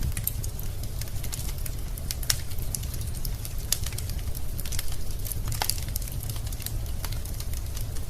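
Wood fire in a fireplace burning with a steady low rumble and irregular crackling and popping of the logs, a few sharper pops standing out.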